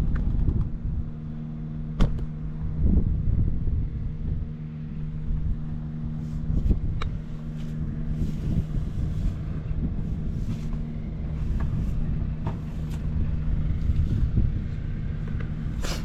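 1992 Honda Jade 250 (CB250F, MC23) liquid-cooled inline-four idling steadily, with a few sharp clicks. The seller describes the engine as in excellent condition with no abnormal noises.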